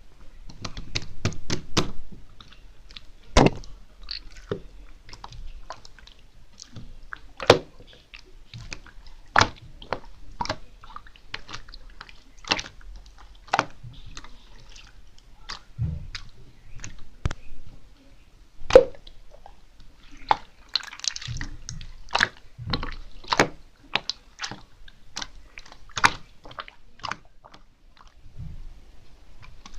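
Glitter slime being squeezed and stretched by hand, making irregular wet clicks and pops with soft squelching in between.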